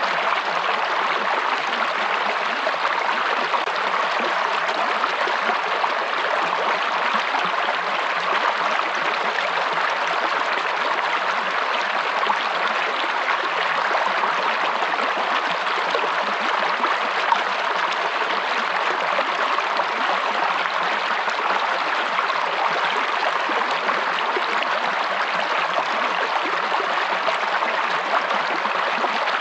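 Stream water running steadily over rocks, an even, unbroken rushing.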